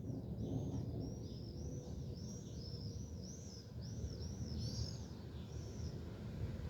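A bird singing a quick run of short, high, arching notes, about two to three a second, which stops near the end, over a low steady rumble.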